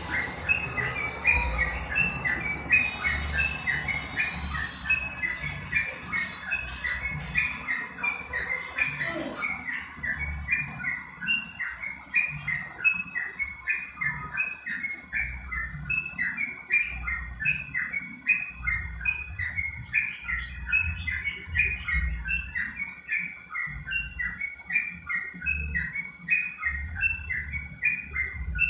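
Trucuk (yellow-vented bulbul) chirping in a quick, steady run of short notes, with irregular low thumps underneath.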